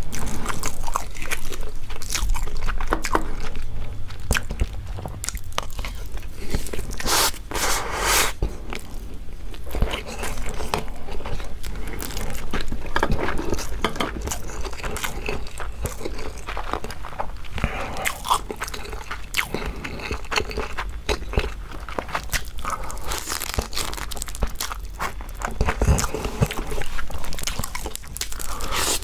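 Marinated raw crab being eaten: crab shells cracking and crunching between the teeth, with wet chewing, in an irregular run of sharp crunches.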